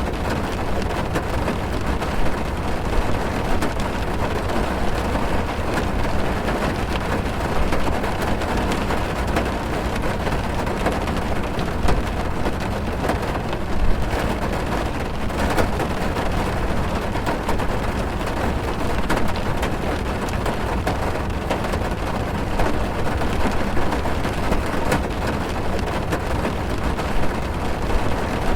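Steady rain drumming on a car's roof and windows, heard from inside the car, a dense patter of drops over a low rumble. A few single drops hit a little louder near the middle.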